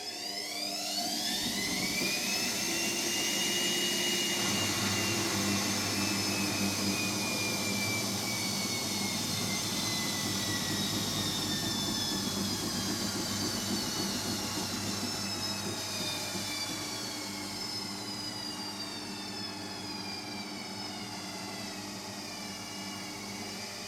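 Hotpoint WMXTF742K washing machine on a spin: a motor whine rises in pitch over the first three seconds as the drum speeds up, then slowly falls over the rest.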